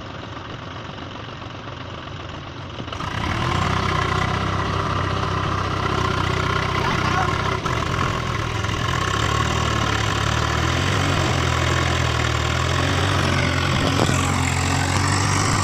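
Tractor diesel engine running. About three seconds in it grows suddenly louder and heavier, then holds steady, as when a tractor takes up load pulling a stuck tractor out of a drain.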